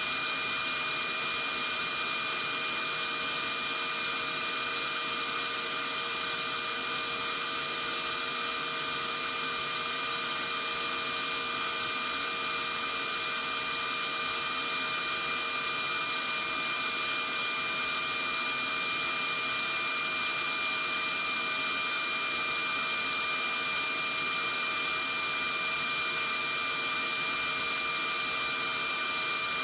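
Vacuum cleaner motor running steadily: an even rushing hiss with a constant high whine over it, with no change in pitch or level.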